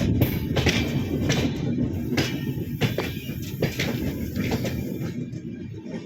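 Jan Shatabdi Express train running, a heavy low rumble with irregular clanks and rattles, easing slightly near the end.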